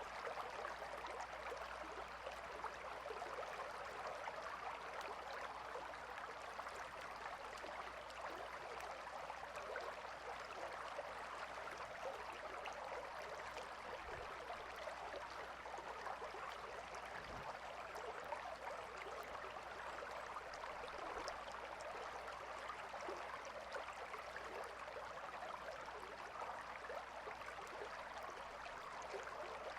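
Calm river flowing, a steady rush of water with fine splashing texture that does not change.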